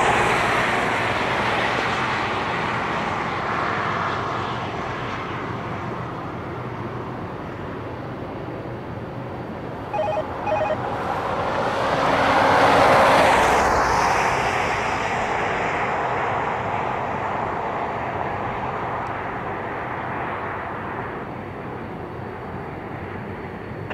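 CN grain train's diesel locomotives rumbling in the distance across the canyon, mixed with steady outdoor noise. The noise swells up and fades again around the middle. Two short beeps sound just before the swell.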